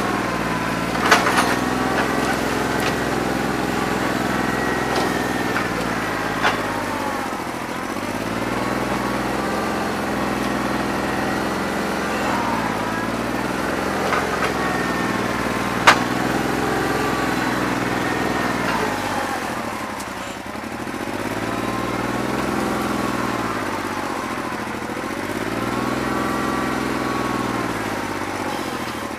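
New Holland 1320 tractor's three-cylinder diesel running with a bad injector, so not all cylinders are firing cleanly. Its speed sags and recovers several times, with a few sharp clicks, the loudest about halfway through.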